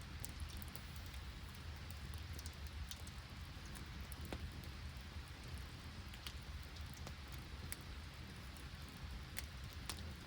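Steady rain with scattered sharp, irregular clicks of drops, over a low steady rumble.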